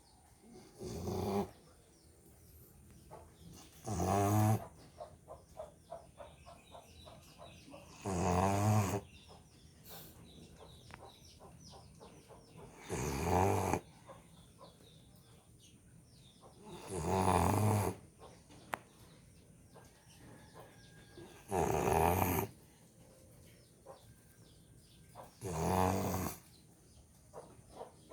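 An American Bully dog snoring in its sleep: seven loud, rasping snores about a second long, one roughly every four seconds, with faint breathing between them.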